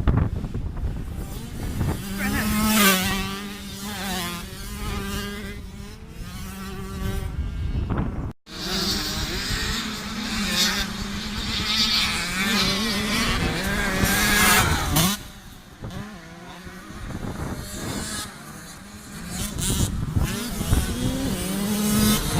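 Yamaha YZ65 two-stroke motocross bike being ridden, its engine revving up and down over and over. The sound drops out for a moment about eight seconds in, and the engine is quieter for a few seconds after the middle.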